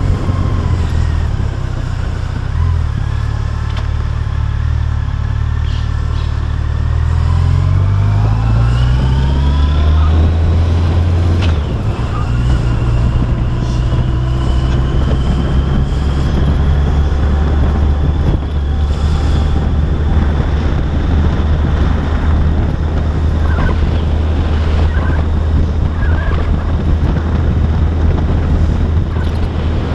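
Yamaha FJR1300AE's inline four-cylinder engine running while riding in traffic. It runs steady and low for a few seconds, rises in pitch as the bike accelerates, breaks off briefly at a gear change about eleven seconds in, then settles into a steady cruise.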